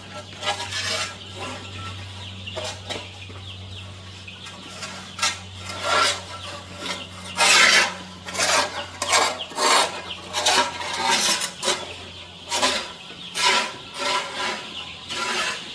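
Repeated scratchy scraping and rustling in a pen of young broiler chicks, with chicks peeping faintly and a steady low hum underneath.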